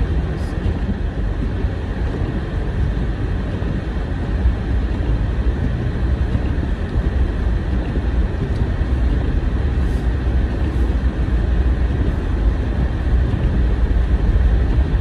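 Steady low rumble of a car being driven, engine and tyre noise heard from inside the cabin, growing slightly louder toward the end.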